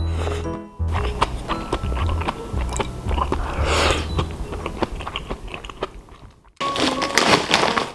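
Crunchy biting and chewing of food over background music, with a brief drop-out about six and a half seconds in.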